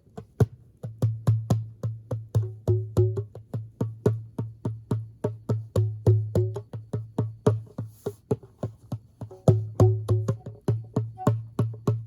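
Djembe played by hand in a steady improvised rhythm, about four strokes a second, deep bass thumps mixed with higher ringing tone and slap strokes.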